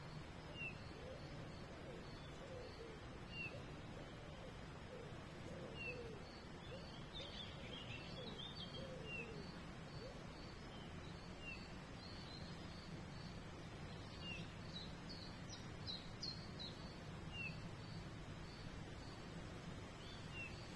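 Faint outdoor birdsong. One bird repeats a short, high falling note every two or three seconds over a steady string of high pips, and bursts of quick chirping come twice. A low steady background hum runs underneath.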